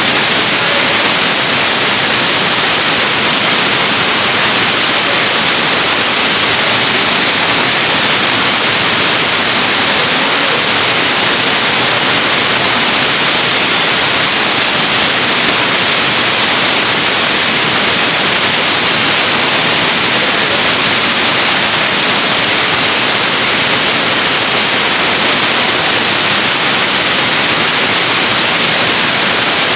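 Waterfall rushing: a loud, steady hiss of falling water with no change throughout.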